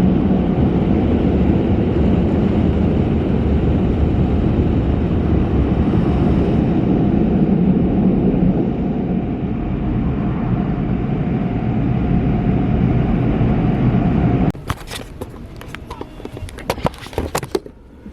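A loud, steady rumbling noise cuts off abruptly about three-quarters of the way through, followed by a few sharp clicks and knocks.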